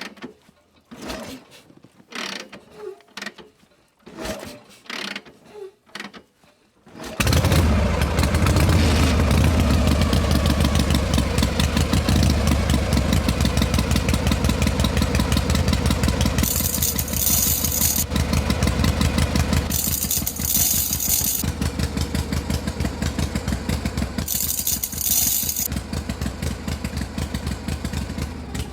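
Knocks and clicks of handling, then about seven seconds in a small motor starts abruptly and runs steadily with a fast pulsing hum. Three times a hissing, rasping noise rises over it for a second or two.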